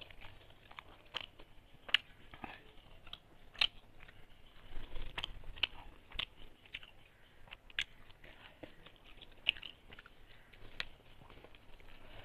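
A person chewing a mouthful of food eaten by hand, close to the microphone, with irregular sharp wet clicks and smacks of the mouth every second or so.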